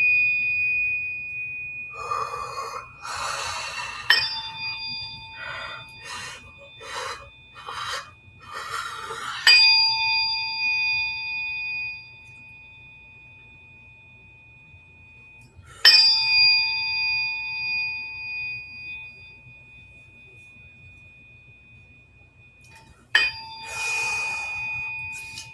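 A struck metal tuning instrument rings with a bell-like tone of several high pitches. It is struck again four times, about every six seconds, and fades between strikes. Short bursts of rushing, breathy noise come between the first strikes and again near the end.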